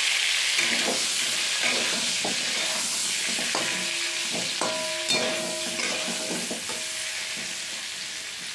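Stuffed brinjals frying in hot oil in a metal wok, a steady sizzle that eases slightly toward the end. A metal spatula scrapes and knocks against the wok, making it ring briefly several times in the middle.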